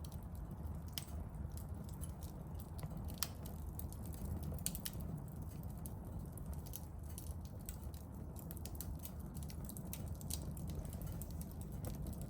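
Small wood campfire crackling, with many irregular sharp snaps and pops of burning firewood over a steady low rumble.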